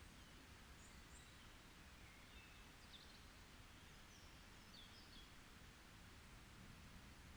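Faint forest ambience: a few short, high bird chirps and calls scattered through, over a steady low background hiss.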